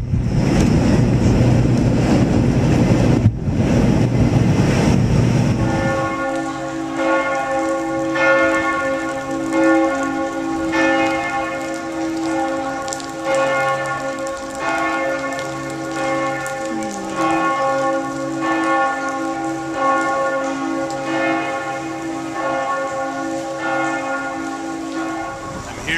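Heavy rain with a low rumble for about six seconds, then church bells ringing, struck over and over about once a second with their tones hanging on between strikes.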